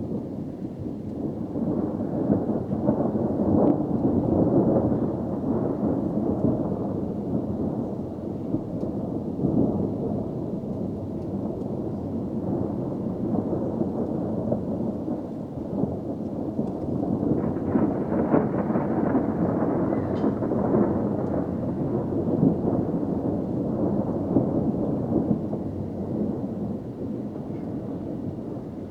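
Rolling thunder rumbling on without a break, swelling loudest a few seconds in and again past the middle.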